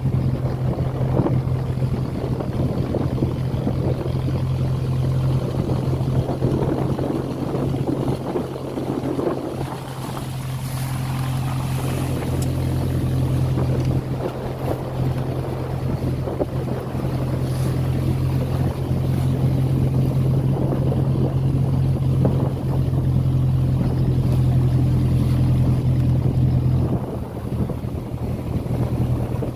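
Passenger motor boat's engine running with a steady drone, over the rush and splash of waves against the hull and wind on the microphone. The engine note eases slightly near the end.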